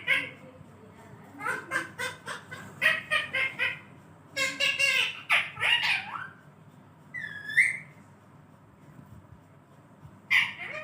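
Pet parrot squawking and chattering in several bursts of quickly repeated calls, with one single curved call about seven and a half seconds in.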